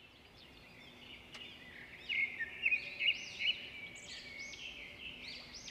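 Birds chirping and singing in quick, repeated arching phrases over faint outdoor background noise, loudest from about two to three and a half seconds in.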